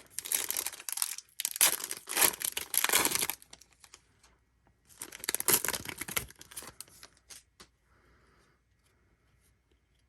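Trading card packaging being torn open and crinkled, in three bursts of tearing over the first six or so seconds, followed by a few light clicks of handling before it goes quiet.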